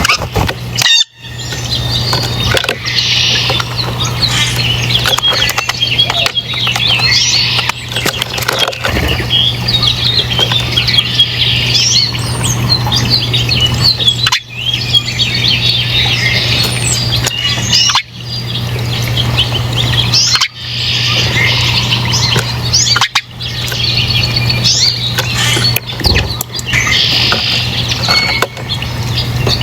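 Many small birds chirping and twittering at once, a dense overlapping chorus of quick high calls, over a steady low hum.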